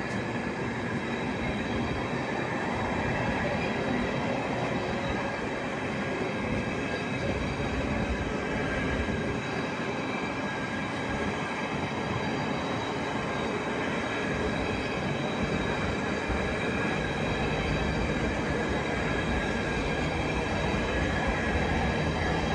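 A train moving on the rails: a steady rumble and rattle with faint, steady high tones over it.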